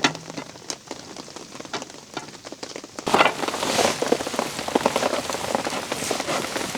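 Rain falling on leaves and surfaces: scattered separate drops at first, then heavier and denser rain from about three seconds in.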